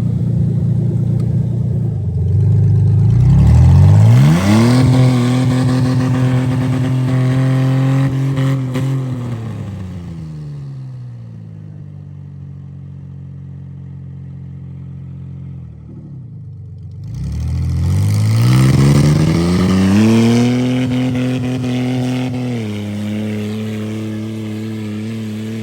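Car engine revved hard twice: it climbs quickly about three seconds in and holds a high steady pitch for several seconds before falling back to a lower steady run, then climbs again about seventeen seconds in, holds, and steps down to a lower note near the end.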